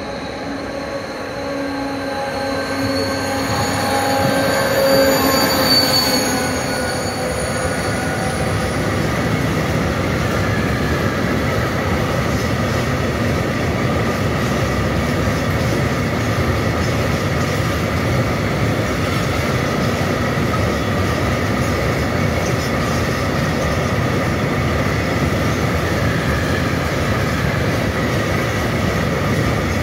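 A class 232 'Ludmilla' diesel locomotive (BR232-035) passes at speed hauling a freight train. Its tones swell to a peak about five seconds in and drop in pitch as it goes by. Then comes the steady rumble of open freight wagons rolling past.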